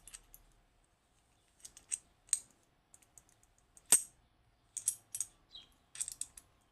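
Small metal clicks and scrapes from the parts of a Western Electric 30B lever lock being worked loose during disassembly, in irregular clusters, with one sharper click about four seconds in.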